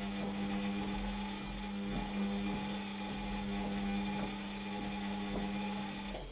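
Washing machine motor turning the drum during the wash, a steady hum with faint irregular clicks, stopping abruptly near the end.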